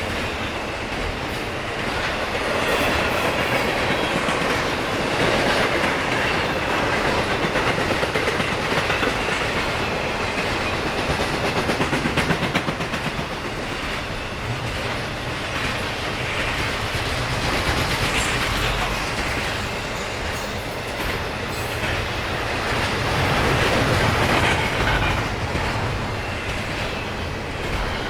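Freight train cars rolling past, a steady rumble of steel wheels on rail with clickety-clack over the rail joints, swelling and easing as the cars go by.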